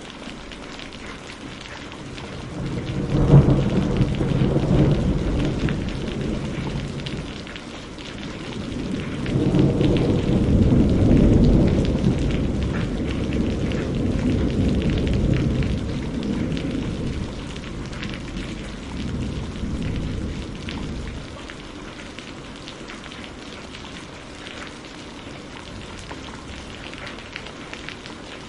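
Steady rain falling, with two rolls of thunder over it. The first breaks in sharply about three seconds in and rumbles away; the second swells up a few seconds later, loudest early on, then fades out slowly, leaving rain alone near the end.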